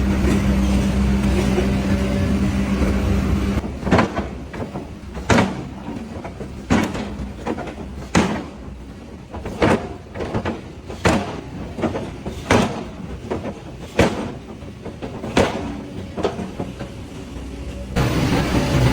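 Evenly spaced sharp knocks, about one every second and a half, between stretches of a steady hum that stops about three and a half seconds in and comes back near the end.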